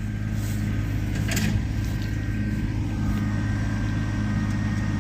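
Tractor engine running steadily at a constant speed, with one short knock about a second and a half in.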